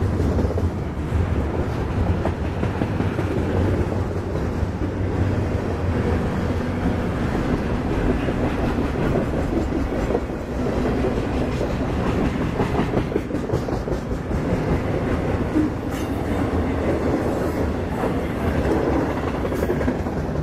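Freight train of flatcars loaded with trash containers rolling steadily past. The steel wheels on the rails make a continuous noise with faint clicks scattered through it.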